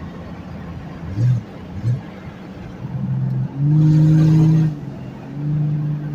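Exhaust of a Jeep 4.0 L straight-six running through a straight pipe with no catalytic converter and no muffler. It gives two short throttle blips about a second in, then gets louder under throttle for about a second in the middle, and again near the end, holding a steady pitch each time.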